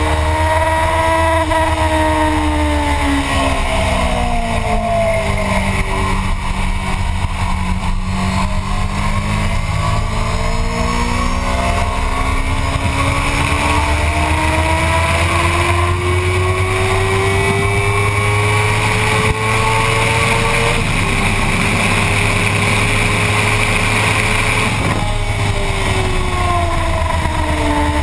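Motorcycle engine on a race track, heard from on board: its pitch falls for several seconds as the bike slows, then climbs steadily for about ten seconds under acceleration. It drops briefly about twenty seconds in, climbs again, and falls near the end, over a steady rush of wind noise.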